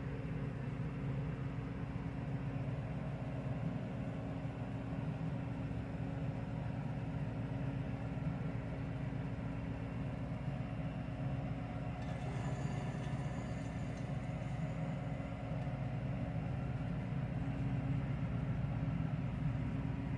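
A vehicle engine running steadily, a constant low drone with no revving, with a faint higher hiss joining about two-thirds of the way through.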